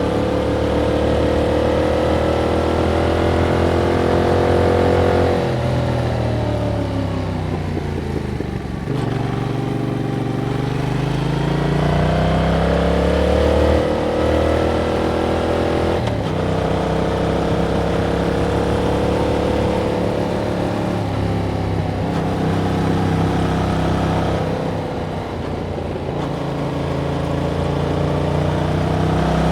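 Yamaha MT-07's 689 cc parallel-twin engine on its stock exhaust, heard while riding. The engine note falls as the bike slows about six seconds in, climbs steadily as it accelerates again, drops at a gear change about halfway through, then holds at a steady cruise with a brief lift off the throttle near the end.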